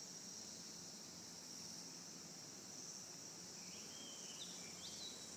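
Faint, steady, high-pitched buzz of insects, with a few short faint chirps about four seconds in.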